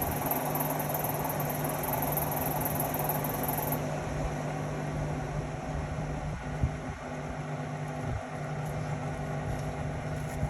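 Indesit Innex XWA 81252 front-loading washing machine running with a steady motor hum, with a couple of short knocks in the second half.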